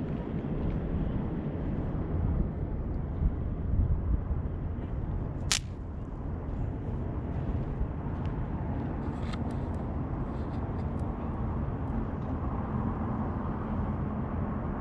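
Consumer fireworks going off: one sharp crack about a third of the way in, then a few faint crackles a few seconds later, over a steady low rumble of background noise.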